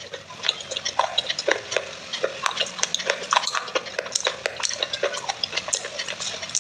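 Close-miked chewing of baked clay pieces: quick, irregular crunches and crackles, several a second.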